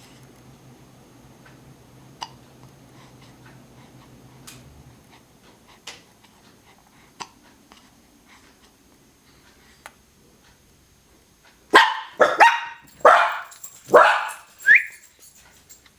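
Dog barking: about five loud barks in quick succession, starting about twelve seconds in, the last ending in a short rising yelp. Before that, only a few faint clicks.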